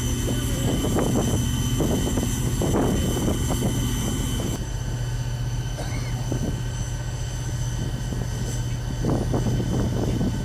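Aircraft engines running: a steady low hum under high, steady whining tones, with scattered short knocks and clatter over the top.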